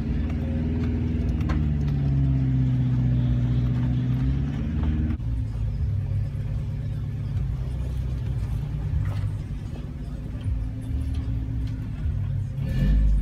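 Engine of a vehicle towing a derelict Toyota 4Runner on a strap, heard from inside the cab. Its pitch rises and falls with the throttle for about five seconds under the load, then it settles into a steadier, lower run.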